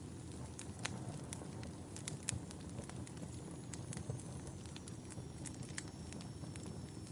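Wood fire burning in a fireplace: logs crackling with frequent irregular sharp pops over the low, steady rush of the flames. A faint high whistle comes in about halfway through and sinks slightly in pitch.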